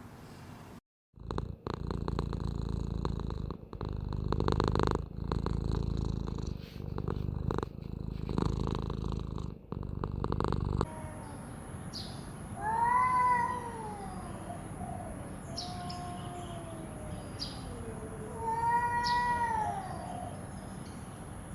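Cat purring close up, a loud rough rumble pulsing with each breath, for about ten seconds. Then, after a cut, a cat gives a couple of long, drawn-out meows that rise and fall in pitch.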